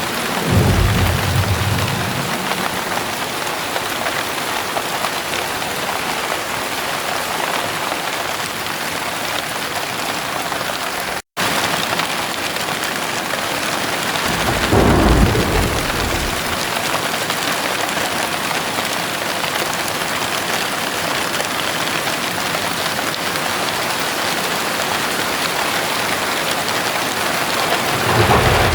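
Heavy rain falling steadily, with thunder rumbling three times: shortly after the start, about halfway through and again near the end. The sound cuts out completely for a split second about eleven seconds in.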